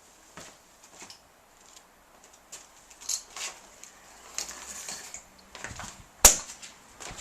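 Scattered light clicks and short rustling or hissing noises, with one sharp, loud click about six seconds in.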